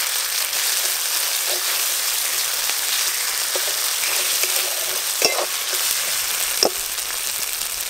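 Spice pastes (cumin, ginger and chilli) sizzling in hot mustard oil in a metal karai while a spatula stirs and scrapes them through the pan. It is a steady frying hiss with two sharp clicks late on.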